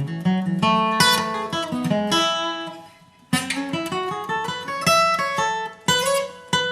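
Acoustic guitar picking a bluegrass lead run note by note, in two phrases with a short break about three seconds in. The last note is left ringing.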